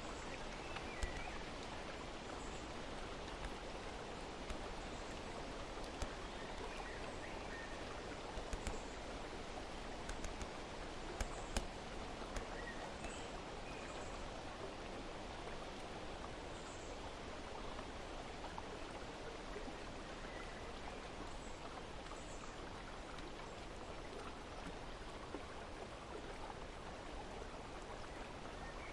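Steady rush of flowing water, with a few faint, short bird chirps and occasional light clicks in the first half.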